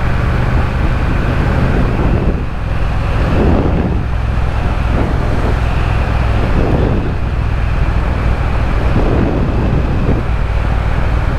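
Triumph Speed Twin parallel-twin engine running steadily on the move, with wind buffeting the microphone in a few gusts.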